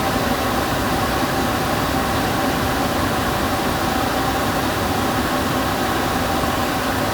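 A household electrical appliance running steadily: an even motor hum with a hiss and a few faint steady tones.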